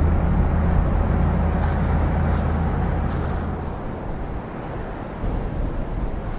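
Tractor engine running with a steady low hum, which drops away about four seconds in and leaves a rough wind-like noise.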